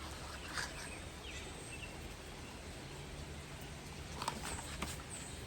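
Low steady background noise with a few faint clicks or rustles, about half a second in and again around four seconds in, and brief high chirps near the end.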